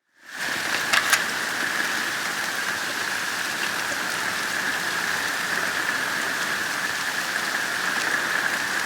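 Hurricane rain coming down pretty hard, a steady even hiss of rain on surfaces, with a couple of sharper ticks about a second in.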